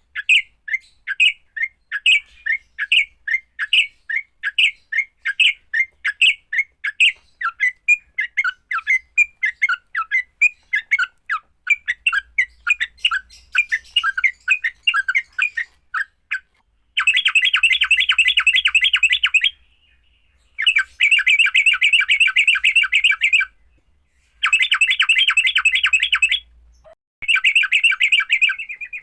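Yellow-vented bulbul (trucuk) giving its aggressive fighting calls: a run of short, sharp notes about three a second, then from about halfway, rapid dense chattering in bursts of two to three seconds with brief breaks.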